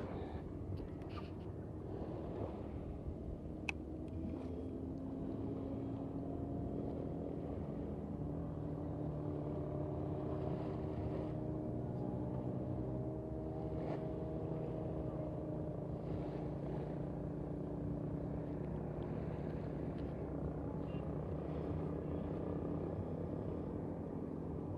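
An engine running steadily with a low, even hum that drifts slightly in pitch, over a low background hiss.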